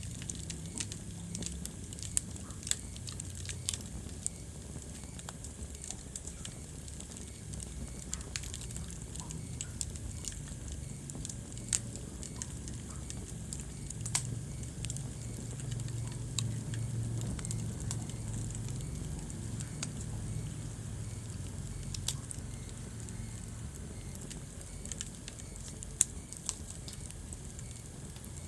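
Wood fire burning in a fireplace, with a steady low rumble of flames and irregular crackles and sharp pops of burning logs.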